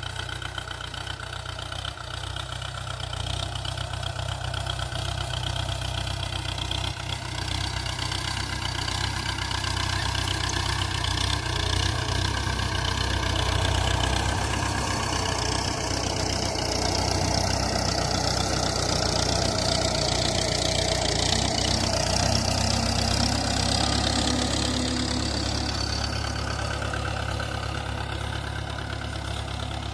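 Mahindra 475 tractor's three-cylinder diesel engine running steadily while pulling a cultivator. It grows louder over the first half and eases off slightly near the end.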